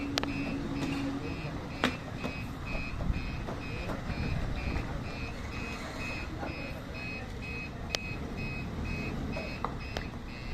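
Truck's reversing alarm beeping steadily, about two and a half beeps a second, over the low rumble of the engine, with a few sharp clicks.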